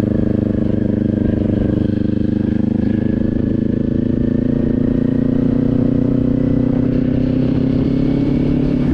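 Motorcycle engine running steadily while riding, its note climbing slightly in the second half.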